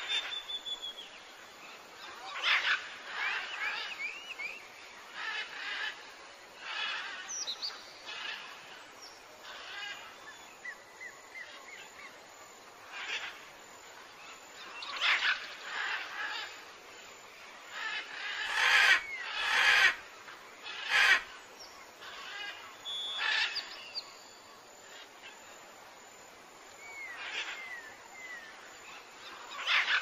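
Birds calling outdoors: short, irregular calls and small chirps, with three sharp knocks a little past the middle.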